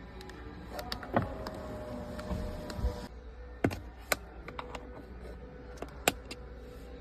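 Power window motor of a BYD Seagull running in two runs of a couple of seconds each, a steady whine, with sharp clicks between and at the ends of the runs.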